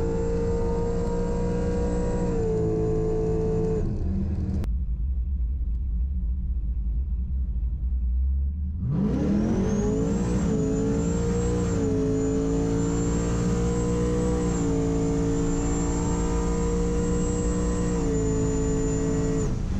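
Supercharged Pontiac G8 GT's V8 running inside the cabin, with a steady high supercharger whine over the engine. For about four seconds the sound drops to a dull low rumble, then about nine seconds in the engine revs up and the whine climbs with it, holding at the higher pitch with small steps in engine speed.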